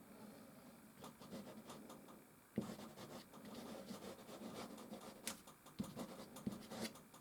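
Soft pastel stick scratching across canvas in short, irregular strokes, with a sharp tap about two and a half seconds in.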